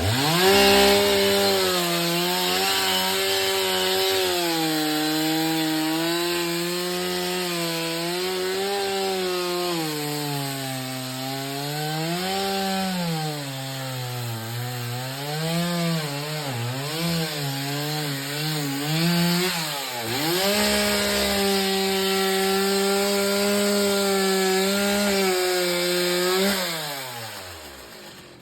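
Chainsaw cutting through wood, its engine pitch rising and dipping as the chain bites and frees. It comes in suddenly, then slows with a falling pitch and fades near the end.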